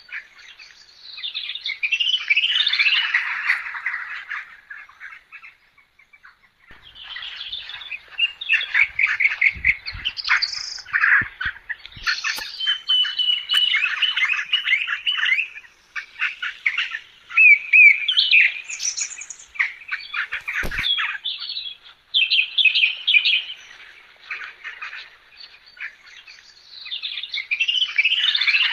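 Birds chirping and singing: many quick chirps and trills in bouts, with short lulls between them.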